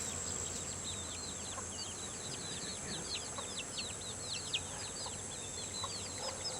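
Many small birds chirping in quick, overlapping high chirps, over the steady hum of honeybees flying at a hive entrance.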